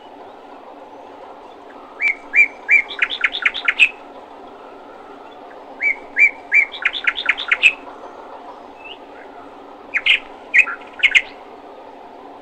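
A songbird singing three short phrases, each a few separate notes that speed up into a quick run, over a steady background hum.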